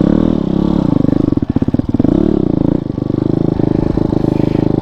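Motorcycle engine running under throttle on a rough trail, its pitch rising and falling twice with blips of revs between steadier running.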